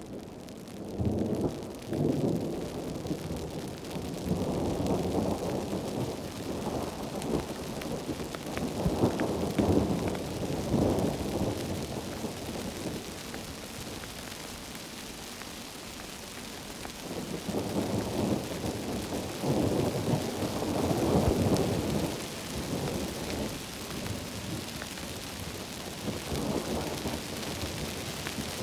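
Heavy tropical rain falling steadily among rainforest trees, with low rolling rumbles that swell and fade several times, loudest a few seconds in and again around twenty seconds in.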